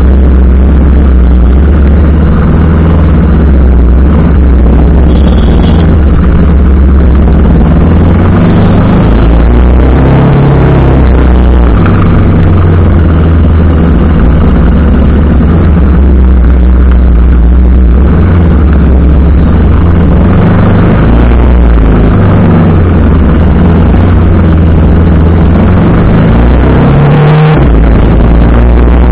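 TVS Apache RR 310's single-cylinder engine running while being ridden, its pitch shifting up and down with the throttle. A heavy, steady rumble of wind on the microphone sits under it. A short rev rises near the end.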